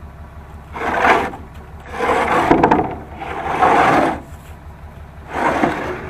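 The ash box of an Empyre 450 outdoor wood boiler is being forced into its slot, scraping and rubbing in four hard pushes.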